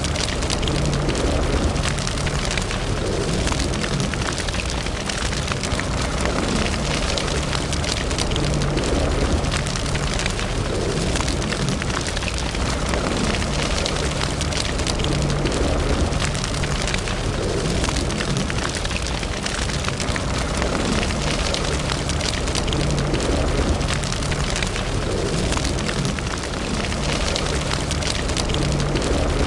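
Wood fire burning in a fireplace: a steady low rush of flame with constant small crackles and pops from the burning logs.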